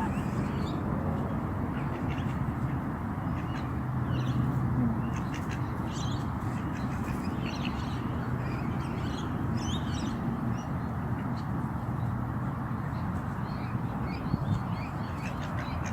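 Birds calling: many short, high calls scattered throughout, over a steady low hum.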